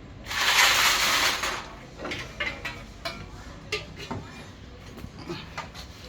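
A hiss lasting about a second and a half near the start, followed by scattered metal clicks and clinks of parts and tools being handled during a shock absorber repair.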